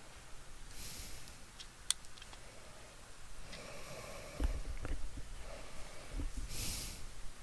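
Handling noise from laptop repair on a workbench: scattered small clicks and a few dull knocks, the loudest about halfway through. Two short breathy hisses, one about a second in and one near the end.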